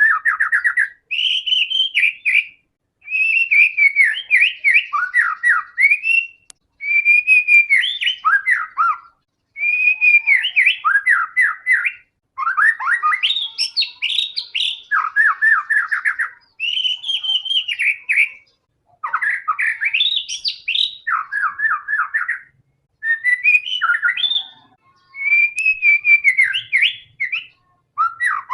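White-rumped shama (murai batu) singing in full, "gacor" form: a steady run of varied phrases, each a second or two long, made of clear whistles and fast rattling note runs, with short pauses between them. This is the kind of song bird keepers play as a lure to get other shamas to sing.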